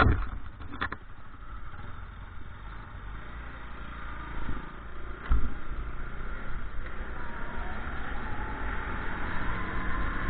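A vehicle engine running steadily, with two sharp knocks at the start and a thump about five seconds in.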